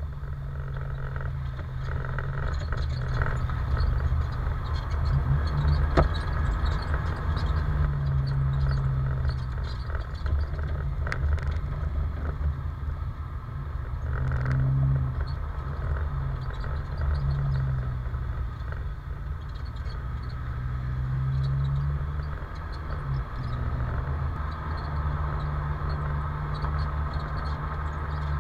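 Alfa Romeo 916 Spider Twin Spark four-cylinder engine through its Cybox exhaust, heard from inside the cabin while driving, its note rising and easing several times with the throttle over a steady road rumble. A couple of sharp clicks come about a quarter and about two-fifths of the way through.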